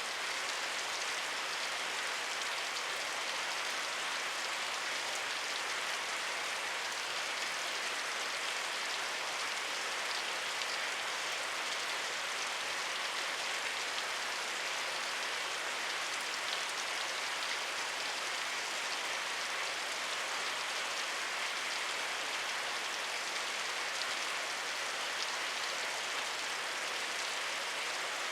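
Steady rainfall: an even hiss of rain falling on surfaces, with no changes in intensity.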